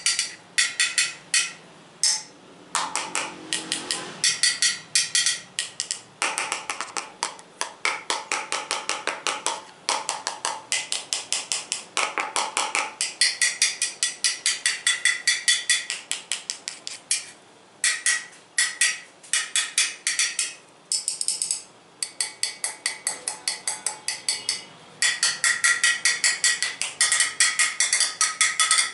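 Fast tapping on hard objects, several taps a second, in runs broken by brief pauses.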